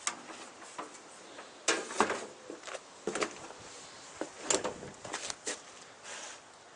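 Irregular short knocks and clunks, several of them spread over a few seconds with a cluster near the end, and no engine running.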